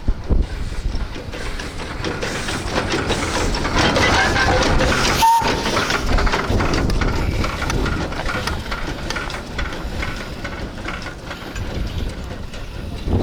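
Narrow-gauge sugar-railway steam locomotive No. 346 passing close by, with steam hissing and wheels clicking over the rails. It is loudest about five seconds in as it goes past.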